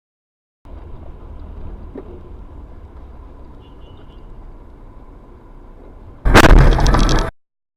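Steady low road and engine rumble from inside a moving vehicle, then about six seconds in a sudden, very loud crash of a vehicle collision lasting about a second before the recording cuts off.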